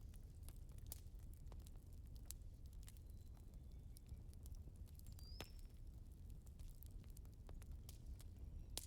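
Wood fire crackling: irregular small pops and snaps over a faint low rumble, with one brief high hiss about five seconds in.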